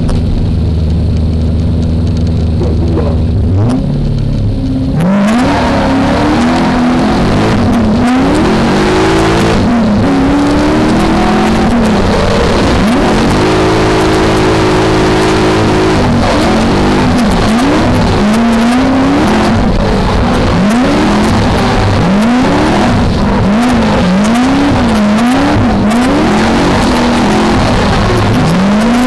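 V8 engine of a BMW E30 drift car heard from inside the cabin: it runs at steady low revs for the first few seconds, then revs hard, its pitch rising and falling again and again as the car is driven sideways, with quick up-and-down rev swings near the end. From about five seconds a steady rush of noise runs under the engine.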